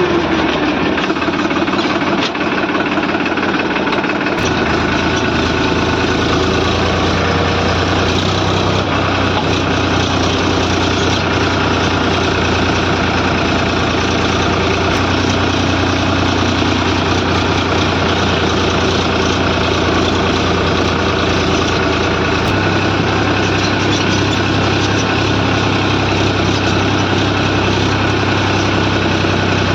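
Heavy diesel engine running steadily, its low drone growing stronger about four seconds in and again about two-thirds of the way through.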